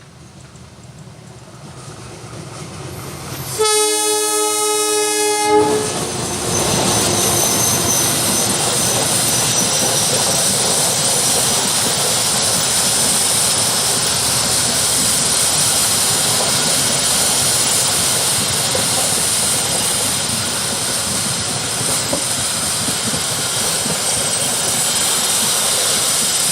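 Train approaching and growing louder, sounding its horn for about two seconds as it arrives, then passing close by at speed with a loud, steady rush and clatter of wheels on the rails.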